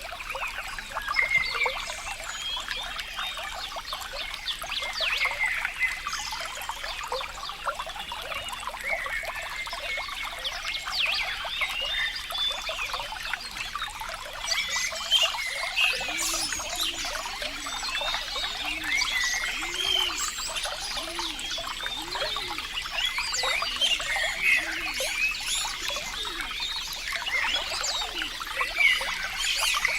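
Small stream of water trickling and babbling steadily. From about halfway through, a series of short, low notes joins in, each rising and falling, repeating about once a second.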